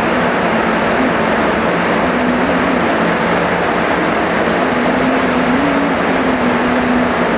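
Heavy rain falling steadily, a dense even hiss, with a faint low hum underneath that steps up and down in pitch.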